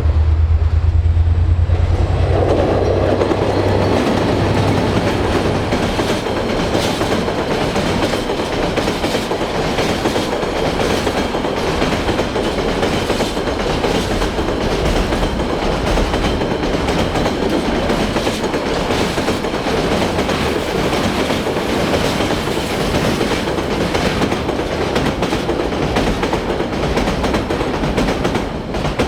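Freight train passing close by. A diesel locomotive's low engine hum is loudest for the first few seconds, then a long run of wagons rolls past with a steady clickety-clack of wheels over the rail joints.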